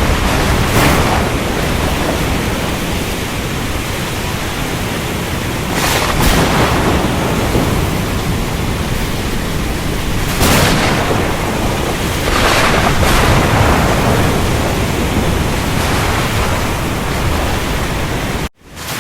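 Steady rainstorm noise with several swells of thunder breaking through. Near the end the sound cuts out for a split second, then comes back.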